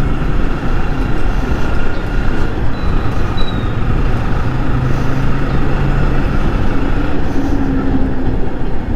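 Steady rush of riding wind over a helmet-mounted camera microphone, with a motorcycle engine running underneath at highway speed. The bike is a Yamaha R15 V3.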